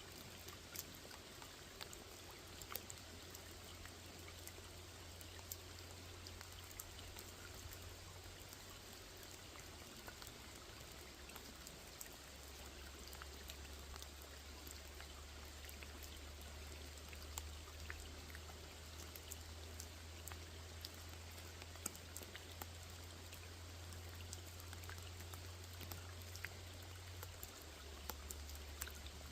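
Steady rain falling on a small pond, a constant patter with many distinct drops ticking through it. A low steady hum runs underneath and drops slightly in pitch about halfway through.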